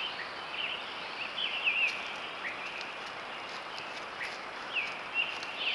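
Small birds giving short, high, down-slurred chirps, several in quick runs, over a steady hiss.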